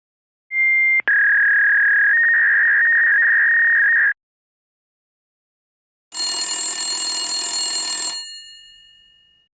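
Telephone sound effects: a short high electronic beep, then a steady electronic tone of about three seconds that stops abruptly. After a pause of about two seconds comes a bright metallic bell ring of about two seconds that cuts out and rings away.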